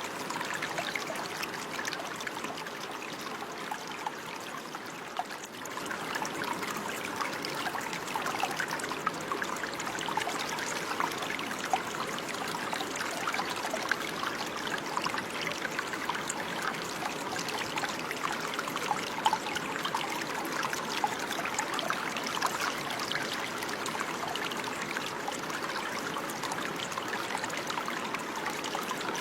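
Running water, a small stream trickling and burbling over stones, with many small splashes.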